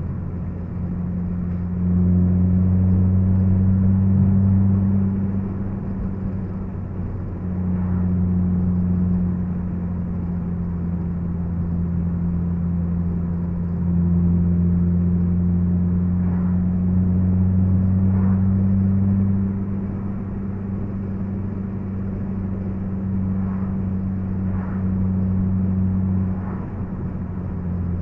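Honda Civic Si's K20Z3 four-cylinder engine running at cruising speed, heard from inside the cabin as a steady low hum with road noise underneath. The hum swells louder for a few seconds at a time, several times, and eases off between.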